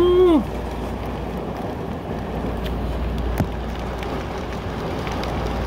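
Heavy downpour: a steady hiss of wind-driven rain from a severe thunderstorm, with a single short tap about three and a half seconds in.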